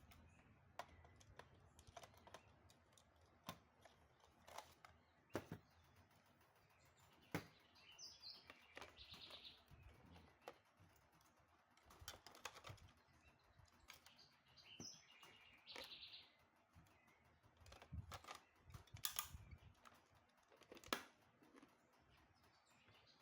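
Faint scattered clicks and small taps, like light handling of plastic parts, with birds chirping quietly in the background now and then.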